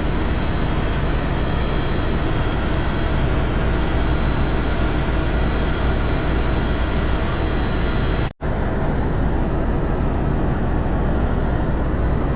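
Helicopter cabin noise: a steady drone of engine and rotor with a faint high turbine whine. It cuts out for an instant about eight seconds in, then carries on.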